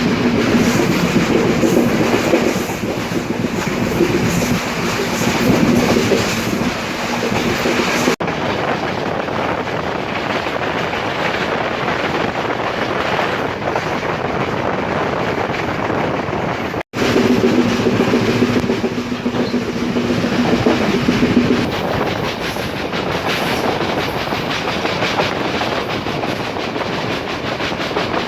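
Trincomalee Express train running at speed, its wheels clattering along the rails over a dense steady running noise. A steady low hum rides over it for the first several seconds and again for a few seconds after the middle. A little past halfway the sound cuts out for an instant.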